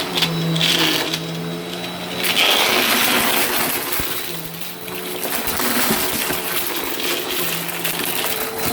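Vacuum cleaner running and sucking up crunchy debris, with irregular crunching and clicking over the motor hum; the hum drops out and returns a few times.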